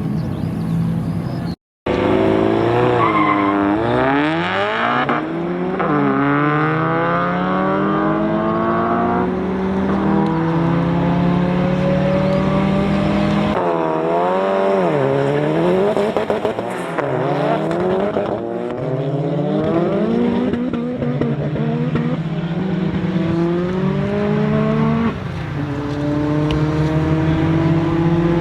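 A high-powered, tuned car engine accelerating hard, its pitch climbing and then dropping back at each gear change, over and over. There is a brief cut-out about two seconds in.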